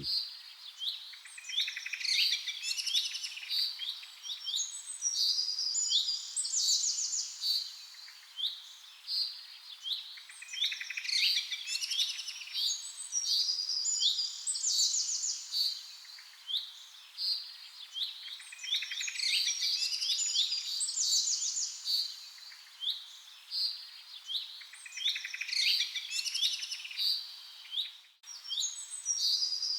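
Birds chirping and trilling in quick runs of high notes. The same sequence of calls repeats about every eight seconds, with a brief break near the end.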